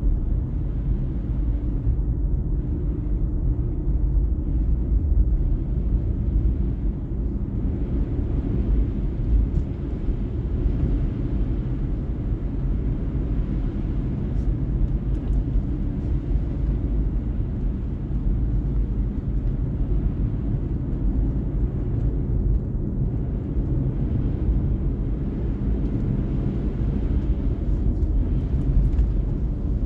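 A car being driven: a steady low rumble of engine and road noise that holds level throughout.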